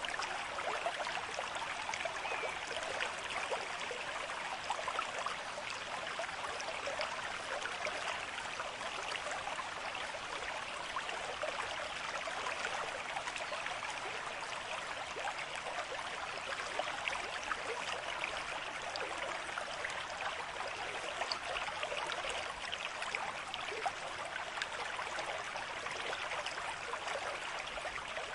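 Running water babbling steadily, like a small stream, with many tiny splashes and trickles over an even rush.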